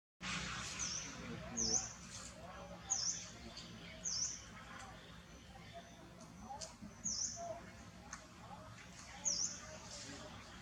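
A bird chirping: short, very high chirps that dip and rise again, repeated every second or two over a faint outdoor background.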